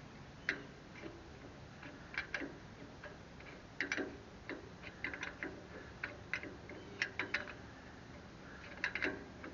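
Irregular sharp clicks and light metallic taps, one to three a second, some in quick pairs: hand tools and a part knocking as a part is worked back into place on a tractor.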